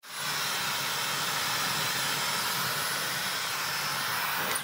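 Dyson Supersonic hair dryer running, a steady rush of blown air with a faint high-pitched whine; it starts and stops abruptly.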